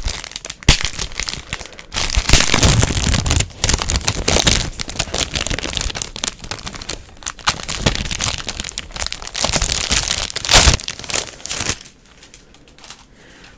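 Packaging crinkling and being torn open close to the microphone as a mouse pad is unwrapped, with a couple of sharp cracks; the rustling stops shortly before the end.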